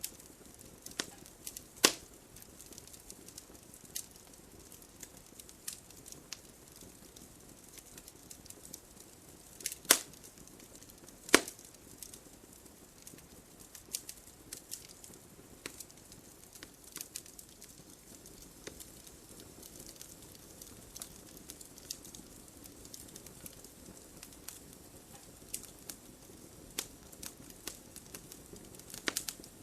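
Wood fire burning in a fireplace: a low steady hiss with scattered crackles and sharp pops of burning logs, the loudest pops about 2, 10 and 11 seconds in.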